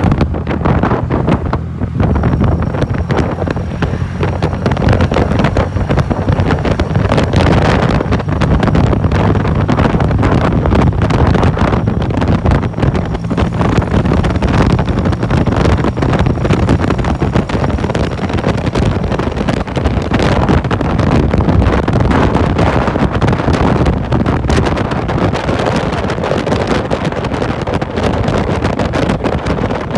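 Motorcycle cruising at steady speed, its engine running evenly with a low steady hum, under heavy wind noise rushing over the microphone.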